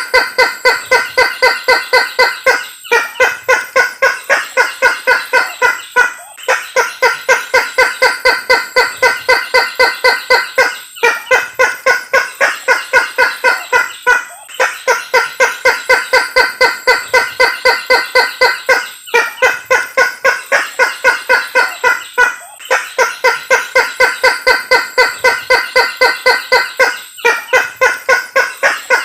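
Lure-call recording of the Sulawesi kareo (tattakeo), a waterhen: loud, rapid repeated pitched notes, about six a second, in bouts of three to five seconds broken by brief pauses.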